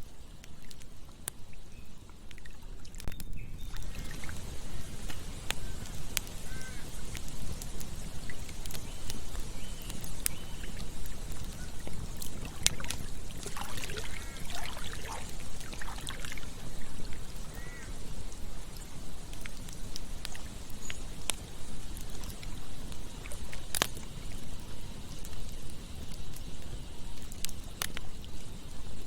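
Campfire burning: wood crackling, with sharp pops scattered through and a loud one late on, over a steady rushing sound like running water. Around the middle comes a cluster of short, wavering whistles.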